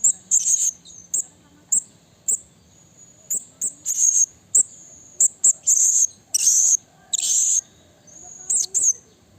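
Blue-crowned hanging parrot (serindit) calling: a string of sharp, very high-pitched notes at irregular intervals, mostly brief, with a couple of longer, harsher calls about two-thirds of the way through.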